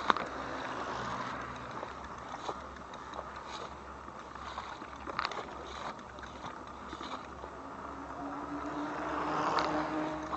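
Steady wind and trail noise of a moving e-bike, with a few light clicks and a faint hum that comes in near the end.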